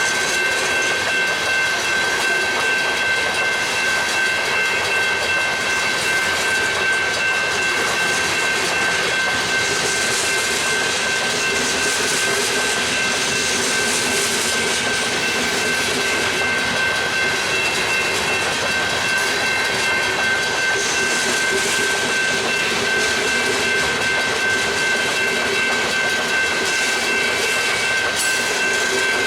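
Freight train cars rolling steadily past, with a continuous high-pitched ringing tone over the rumble of the wheels.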